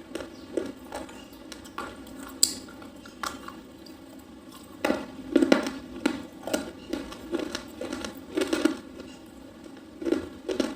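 Someone biting and chewing soft slate pencil: irregular crisp crunches and clicks, with a thicker cluster about five seconds in and another near eight and a half seconds.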